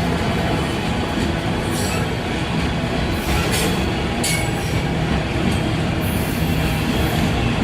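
Freight train cars rolling past, a steady loud rumble with brief high squeals and clicks from the wheels on the rails now and then.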